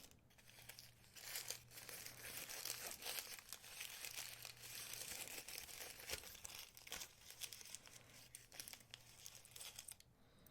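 Faint crinkling and rustling of the wrapping around jewelry clasps as it is handled, many small irregular crackles.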